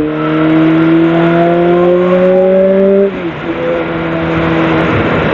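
Sportbike engine accelerating, its pitch climbing steadily through a gear. About three seconds in there is a quick dip for an upshift, then it pulls again as a rushing noise grows louder.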